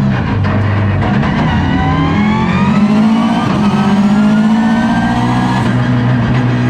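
Subaru sprint car's flat-four engine heard from inside the caged cabin, pulling hard under acceleration with its pitch climbing for a few seconds. The pitch drops about five seconds in, then holds steady near the end.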